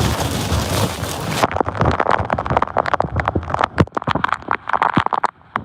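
Heavy thunderstorm rain in strong wind: a dense roar that after about a second and a half breaks into many separate sharp drop impacts close to the microphone, thinning out near the end.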